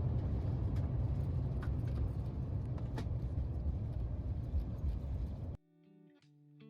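Steady low rumble inside a moving vehicle, with a few faint clicks. It cuts off suddenly about five and a half seconds in, and soft music begins.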